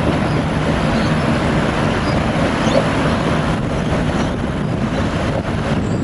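V/Line VLocity diesel multiple unit passing, its underfloor diesel engines giving a faint low hum over a steady rushing noise.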